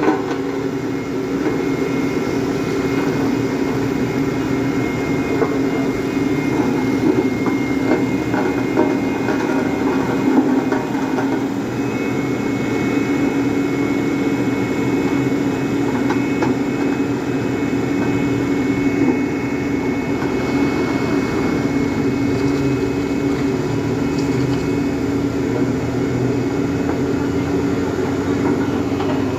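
Heavy diesel engines of trucks or road machinery running steadily as a continuous low drone.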